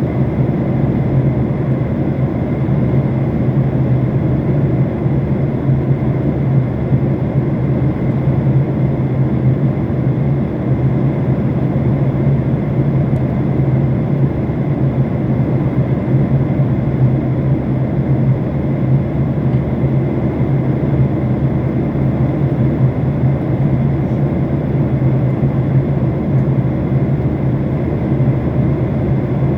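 Passenger airliner cabin noise in flight: a steady, loud, deep drone of engines and rushing air heard from inside the cabin.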